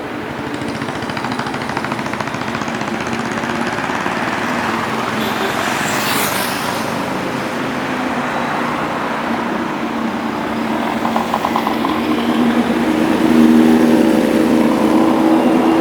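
Motorcycle engines running with road traffic, a steady engine note that grows louder near the end as a bike comes close. A brief rushing hiss passes about six seconds in.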